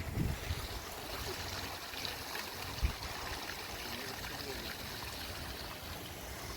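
Mineral spring water running and trickling steadily over travertine terraces, with a single soft low thump just under three seconds in.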